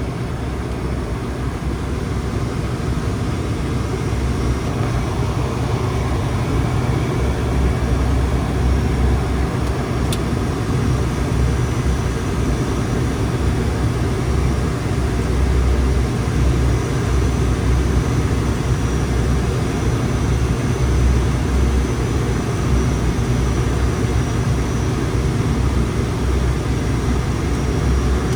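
Twin turboprop drone of an ATR 72-600 heard from inside the aircraft on approach: its Pratt & Whitney PW127 engines and propellers run steadily, with a low hum that pulses slightly. There is one faint click about ten seconds in.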